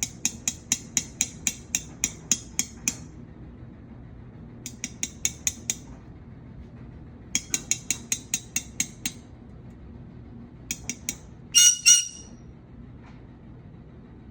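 A green-cheeked conure pecking at a glass container and its lid, making sharp clinks in quick bursts of about five taps a second. Near the end the conure gives two short, loud, shrill calls.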